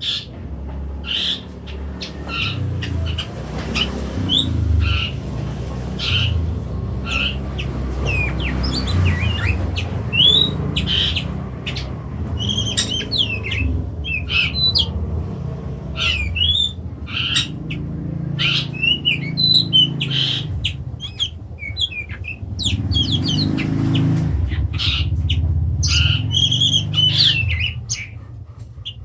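Oriental magpie-robin (kacer) giving repeated short, sharp calls with occasional brief twittering phrases, over a steady low rumble.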